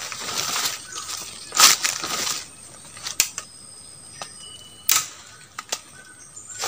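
Hands winding sticky bird-lime glue onto a twig: irregular rustling and handling noise with a few sharp clicks and snaps, over a steady high insect drone.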